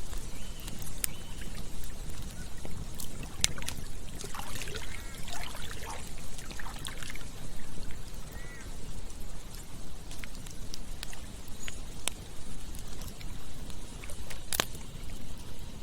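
Campfire crackling with scattered sharp pops, the loudest near the end, over the steady rush of a stream. A short stretch of gurgling water comes in the middle.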